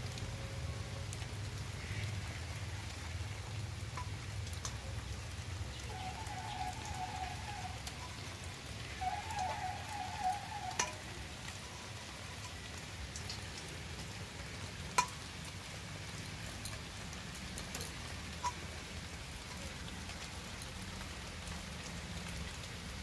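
Steady rain falling, with scattered drops and a few sharp clicks, the loudest about eleven and fifteen seconds in.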